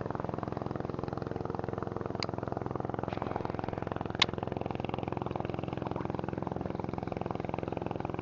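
A small engine running steadily at idle, with two short sharp clicks about two and four seconds in.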